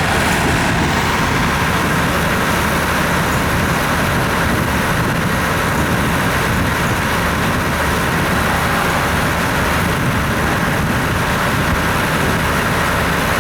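Steady engine running with a low hum and no wheel clatter.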